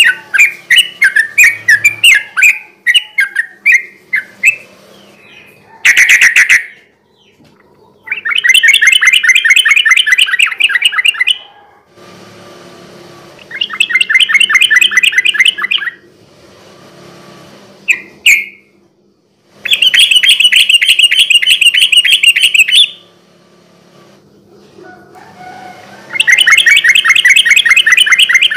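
Yellow-vented bulbul (trucukan) singing: a run of short chirping phrases, then a series of rapid-fire chattering trills, each lasting one to three seconds, with short pauses between them.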